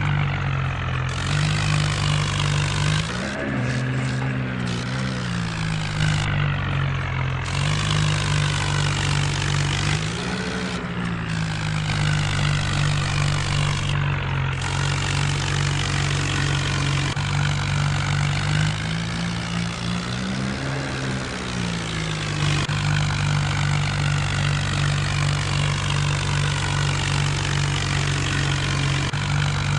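John Deere diesel tractor engine running steadily under work. Its speed rises and falls briefly three times.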